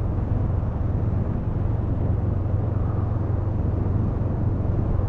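Steady low drone of a Honda CMX500 Rebel's parallel-twin engine with wind rush, ridden at an even speed.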